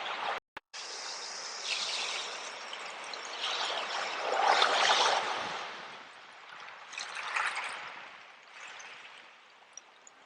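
Sea water washing in and draining back: a steady hiss of water that swells into a loud surge about halfway through, another smaller one later, and ebbs between. The sound cuts out for a moment just after the start.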